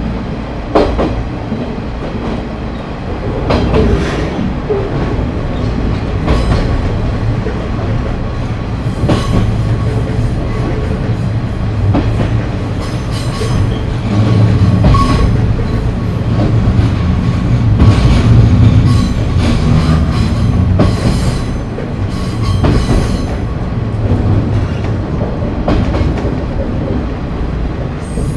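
Onboard running sound of a KiHa 30 diesel railcar under way: its DMH17-series diesel engine drones steadily under the rumble of the wheels. Sharp clicks from the wheels crossing rail joints come irregularly through the middle stretch.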